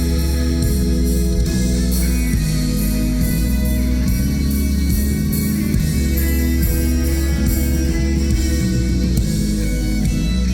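Live indie rock band playing loud through a PA, with electric guitars and a heavy, steady bass.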